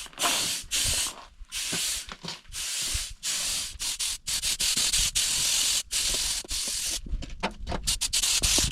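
Rapid, irregular rough crunching hiss of footsteps in snow, taken at a run.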